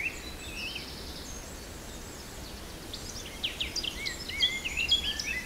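Small birds chirping and twittering in short, quick whistles that rise and fall, growing busier in the second half, over a low steady rumble of outdoor background noise.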